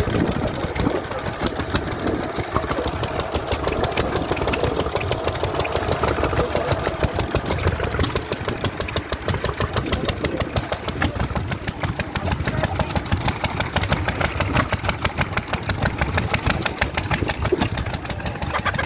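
Vintage stationary engine running steadily with an even, rapid firing beat.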